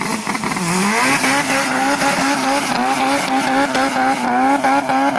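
Car engine revved hard. Its pitch dips briefly about half a second in, then climbs back and is held at high revs.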